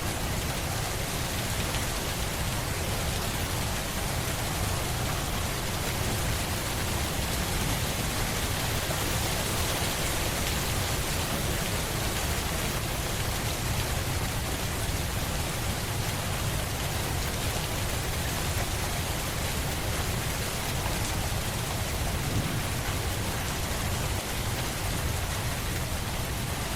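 Steady, continuous rain falling, an even hiss with a low rumble beneath it.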